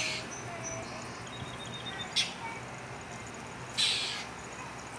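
A bird giving harsh, rasping calls, three times about two seconds apart, the last one longest, with fainter thin chirps in between.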